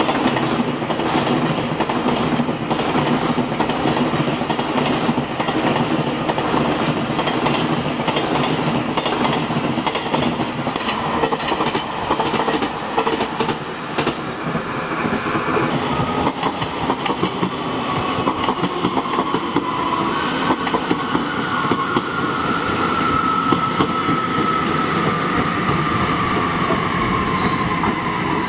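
A long container freight train rolls past with a steady clatter of wagon wheels over the rail joints. About halfway through, a passenger express train takes over. Near the end, a thin high wheel squeal slowly falls in pitch.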